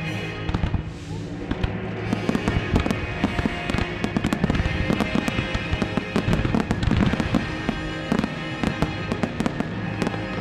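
Fireworks display: aerial shells and crackling reports going off in quick, irregular succession, thickest through the middle, over the show's music soundtrack.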